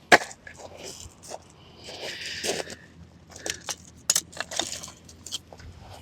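A sharp knock, then scattered clinks, taps and rustling of small objects being handled.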